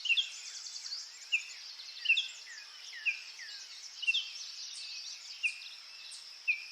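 Birds chirping in a nature ambience track: short, high, falling chirps come about once a second, over a steady high-pitched hiss.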